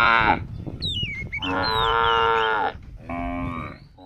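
Cattle mooing: three calls, the first cutting off just after the start, a longer one about a second and a half in, and a short one near the end, with high thin chirps between them.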